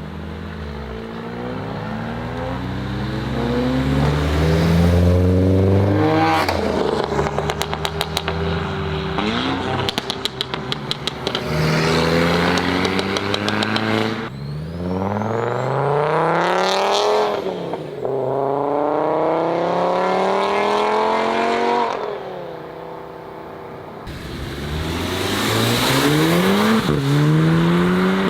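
Modified Volkswagen engine accelerating hard through the gears, its pitch climbing and dropping back at each shift, several times over. A rapid stuttering crackle comes in the middle, and a thin rising whistle is heard over one of the pulls.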